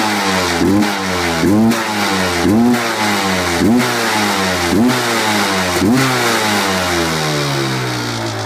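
Suzuki LT250R quad's two-stroke single-cylinder engine being blipped on the throttle, its note rising sharply and falling back about once a second. In the last couple of seconds the pitch sinks slowly as it settles back toward idle.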